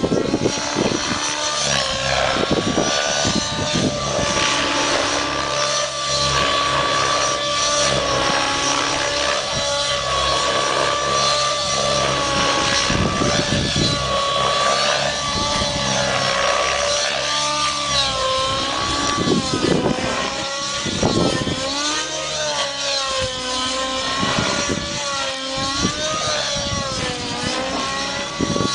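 Align T-Rex 700 nitro RC helicopter in flight: a continuous high engine-and-rotor whine whose pitch rises and falls as it manoeuvres, swinging more often in the second half.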